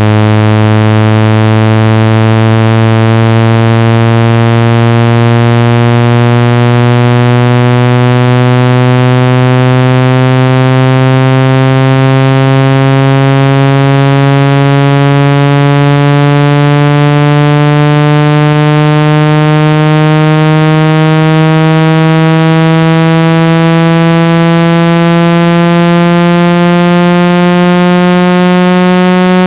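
Electronic buzzing tone for clearing water and dust from a phone speaker, rich in overtones, rising slowly and evenly in pitch.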